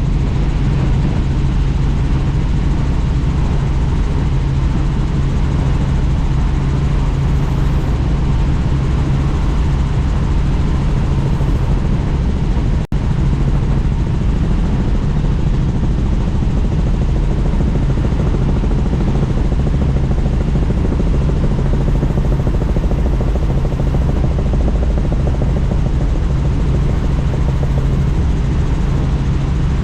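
Helicopter in flight: steady, loud rotor and engine noise with a strong low hum, broken only by a split-second dropout about 13 seconds in.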